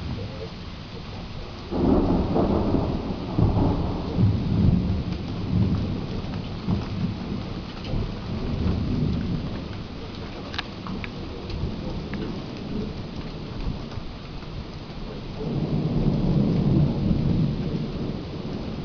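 Thunder over steady rain. A sudden loud clap about two seconds in rolls on and fades over several seconds, and a second rumble swells up near the end.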